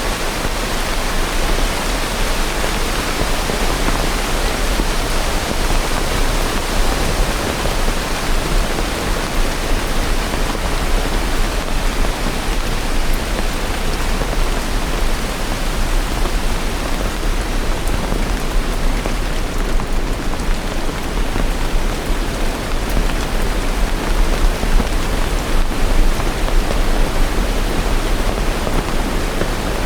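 Steady rain, a dense even hiss with a constant low rumble underneath.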